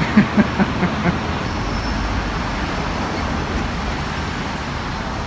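Steady road traffic noise, an even rushing hum, with a few brief snatches of voices in about the first second.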